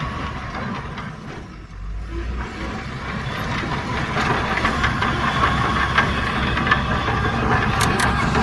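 Heavy diesel earthmoving machinery running, with metallic clanks and rattles. The sound dips briefly about two seconds in, then builds up louder.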